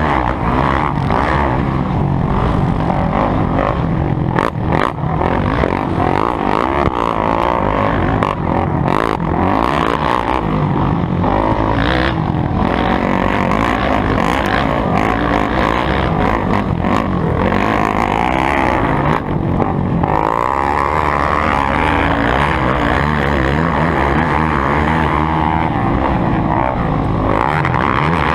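Motocross motorcycle engines running hard, their pitch rising and falling as the throttle opens and closes, with a few sharp knocks along the way.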